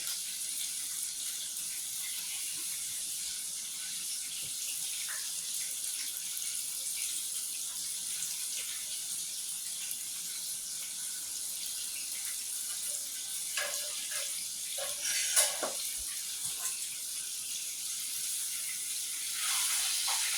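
Breaded chicken frying in hot oil: a steady, high sizzle, with a few short knocks of a utensil or pan a little past the middle.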